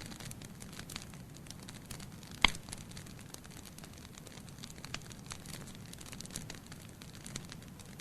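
Wood fire burning in a fireplace, with a steady low rumble and a constant scatter of small crackles, and one much louder pop about two and a half seconds in.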